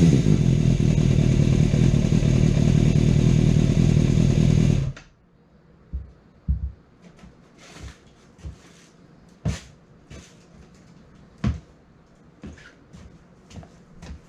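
Suzuki GSX250S Katana's inline-four engine, freshly refilled with oil, running steadily, then cut off suddenly about five seconds in. After that come a few scattered light knocks and clicks.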